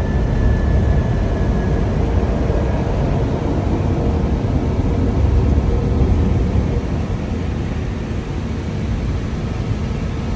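Steady flight-deck noise of an Airbus A321 climbing shortly after take-off: a low rumble of airflow and engines, with a faint high tone for about the first two seconds.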